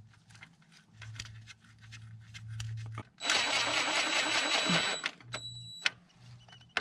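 Small metal clicks of bolts and tools being handled, then a small power tool's motor runs with a high whine for about two seconds and again briefly, driving a bolt and nut into a stripped transmission-pan bolt hole.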